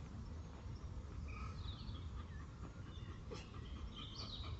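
Faint birdsong: scattered short chirps and whistles over a steady low rumble.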